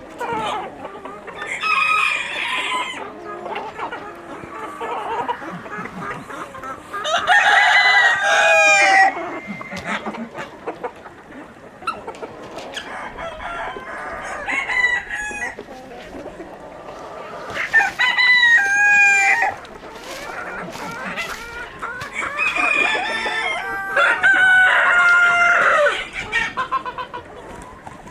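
Roosters crowing several times, each crow lasting a second or two, with hens clucking between the crows.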